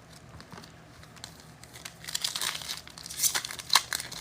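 Foil wrapper of a trading-card pack crinkling as it is torn open and handled, in irregular crackly bursts that start about two seconds in and grow louder toward the end.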